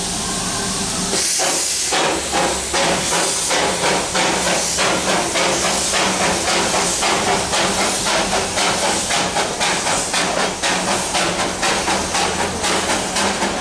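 Darjeeling Himalayan Railway steam locomotive with a burst of steam hiss about a second in, then exhaust chuffs that start at about two a second and quicken as it pulls away.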